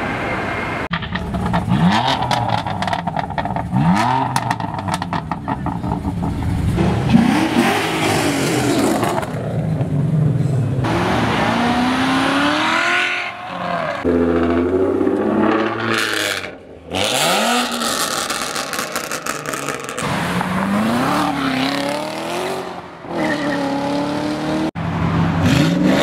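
Several short clips of performance car engines revving hard and accelerating, each rev a rising then falling sweep in pitch, with sharp exhaust crackles between the revs in the first few seconds. The sound changes abruptly several times where one car's clip cuts to the next.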